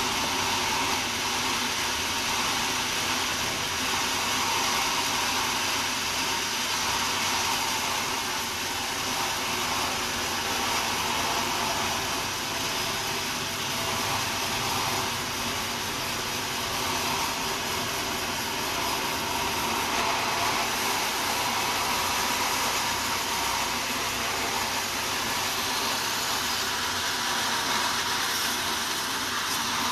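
Sawmill saw running steadily through a wadang log: a continuous hissing, whirring machine noise with no breaks.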